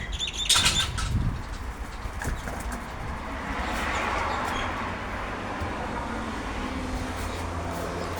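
A bird gives a loud, short call close by about half a second in. Then a car passes, swelling to its loudest about four seconds in and easing off into steady traffic hum.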